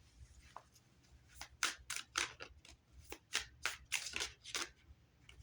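A quick run of about a dozen sharp, crisp clicks and snaps over some three seconds, typical of a deck of oracle cards being handled and flicked.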